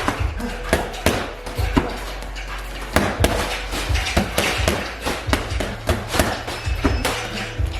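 Sharp, irregular impacts, several a second, of strikes such as punches and kicks landing on pads or bags.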